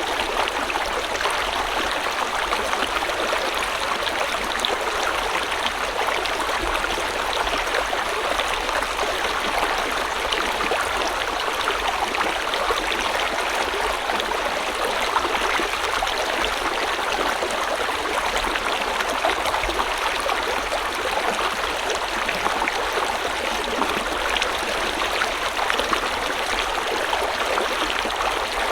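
River water flowing steadily over stones, a continuous rushing with fine splashing and gurgling.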